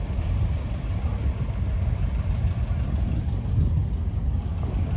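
Steady low rumble of a running vehicle, with no rise or fall in pitch.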